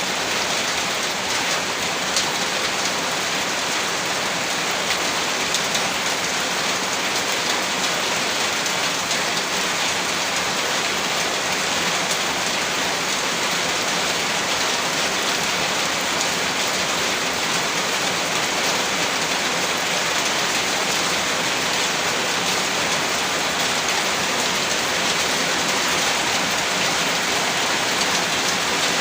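Steady rainfall: a dense, even hiss of rain with fine ticks of individual drops, unchanging throughout.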